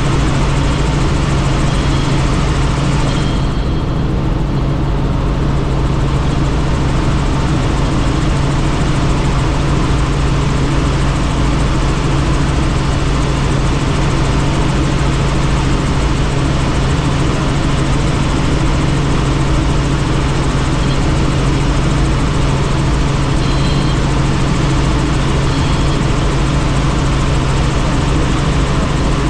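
Helicopter in flight heard from on board: a steady low drone of rotor and engine under a constant rush of wind noise.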